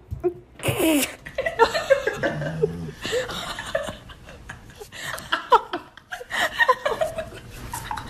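A woman laughing in repeated bursts.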